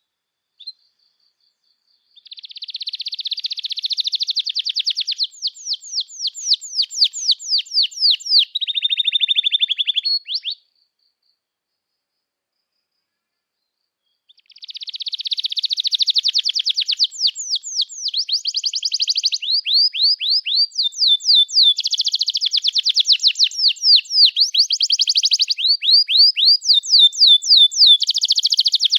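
Domestic canary singing a long song of fast trills and rapidly repeated sweeping notes. A few short chirps open it, and the song breaks off for about four seconds in the middle before resuming.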